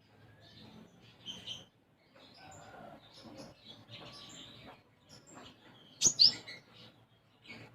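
Olive-backed sunbird (konin) singing a busy run of short chirps and trills, its song worked with Eurasian tree sparrow–style chirping. A loud, sharp call comes about six seconds in.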